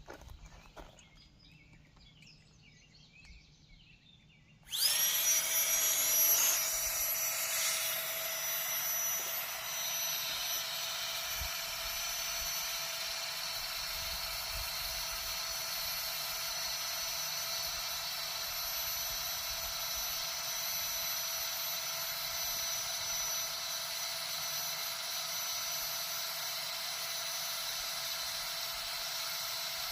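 Small battery-powered air pump, a Flextail, switched on about five seconds in: its motor spins up to a steady high-pitched whine with rushing air as it inflates a Klymit Static V sleeping pad.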